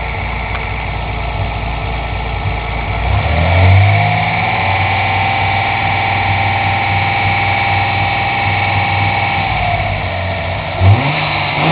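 Datsun 280Z's inline-six engine idling, then revved up about three seconds in and held at a steady higher speed for some six seconds before dropping back to idle, with a short quick rev near the end.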